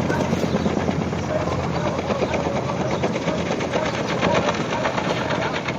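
A machine running steadily with a fast, even pulsing rhythm over a low hum.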